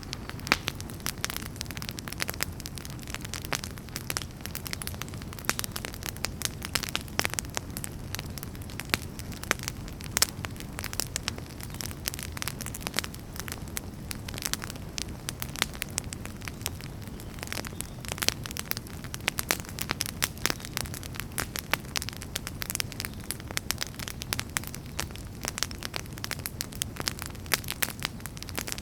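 Wood fire crackling steadily in a fireplace, with dense, irregular sharp pops and snaps over a low, even rumble of flames.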